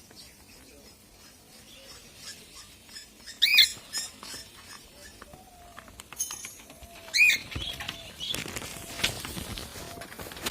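Caged pet parrots calling: two loud shrill calls about four seconds apart over soft, repeated chirping, with a stretch of wing flapping and rustling near the end.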